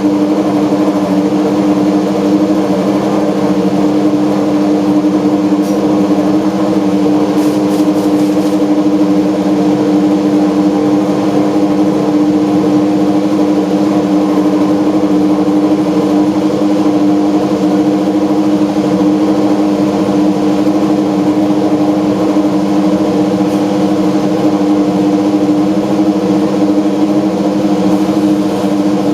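Toyota Prius apr GT GT300 race car's engine idling steadily at an even pitch, with no revs.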